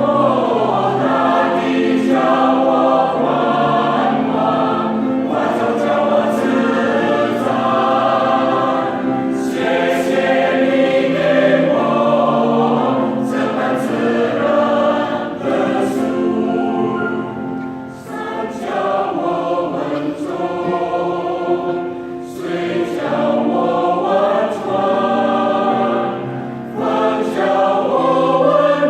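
Choir singing, several voice parts holding and moving together, with the sung consonants clearly audible.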